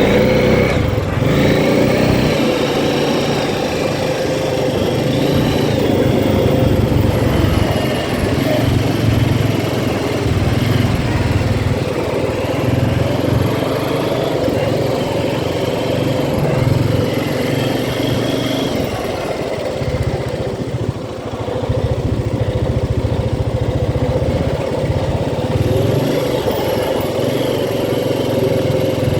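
ATV engine running under way, its pitch rising and easing with the throttle, with a brief let-off about two-thirds of the way through.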